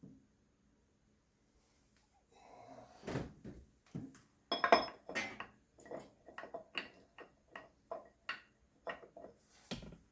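Metal tools and parts clinking and knocking: a quick run of short, light strikes, about two a second, starting about two seconds in, some with a brief metallic ring.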